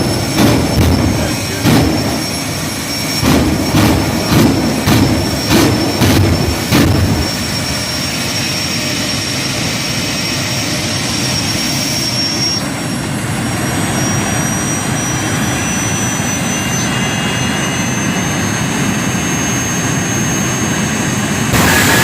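Jet dragster's turbine engine running with a steady high whine, broken in the first several seconds by a quick series of loud sharp bangs. The whine then steps up in pitch and keeps rising slowly. Near the end it jumps suddenly to a much louder roar.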